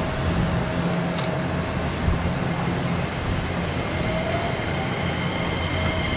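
Passing train: a steady rumble with a low hum, and a high wheel squeal creeping in near the end. A few faint sharp clicks sound over it.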